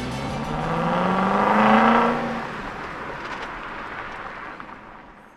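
Car engine sound effect revving up, rising in pitch to its loudest about two seconds in, then fading away.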